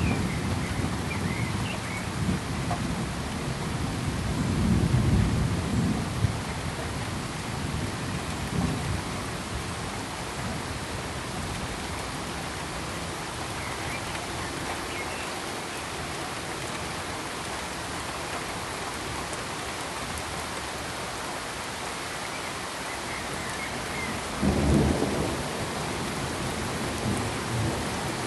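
Steady rain hiss with low rumbles of thunder rolling in several times, the strongest about 25 seconds in.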